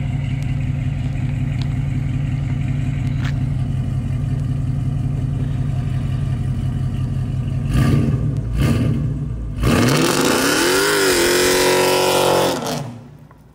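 Dodge Charger police car's Hemi V8 idling with a steady rumble, blipped twice about eight seconds in, then held at high revs for about three seconds as the rear tyres spin and squeal in a smoky burnout. The sound drops away sharply near the end.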